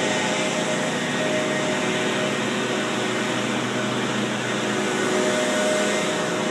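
A steady engine-driven machine drone: an even rush with a constant hum of several tones, unchanging in pitch and level.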